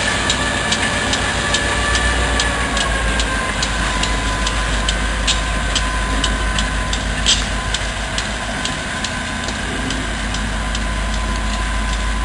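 Train running by with a steady low rumble and an even clicking about three times a second, over a faint high whine that dips slightly in pitch a few seconds in.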